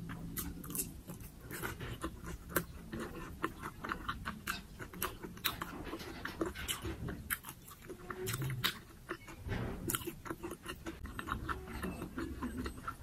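A person chewing a mouthful of food close to the microphone: a steady stream of irregular wet mouth clicks and light crunches.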